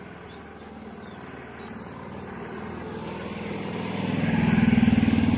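A motor vehicle's engine approaching and passing close by, growing steadily louder and loudest near the end.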